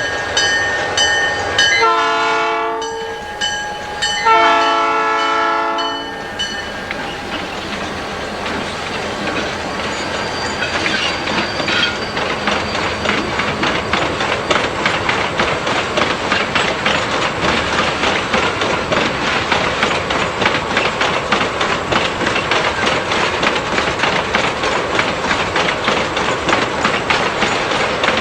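A freight locomotive's air horn sounds twice, a short blast then a longer one, while a bell rings in steady dings at the start. The train then rolls past, its wheels clicking rapidly and evenly over the rail joints.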